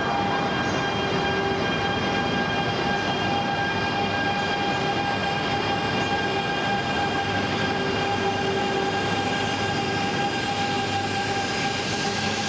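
E3 series Shinkansen train pulling out slowly from a standstill, its electric drive giving a steady whine of several even tones over a low rumble.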